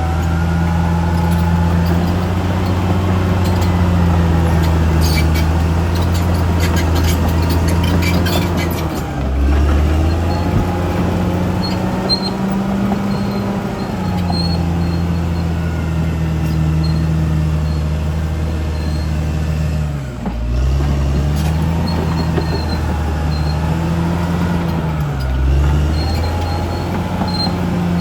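Caterpillar D6R XL bulldozer's diesel engine running steadily under load. Its note dips and recovers briefly three times: about a third of the way in, about two-thirds in, and near the end. A spell of sharp crackling is heard in the first third.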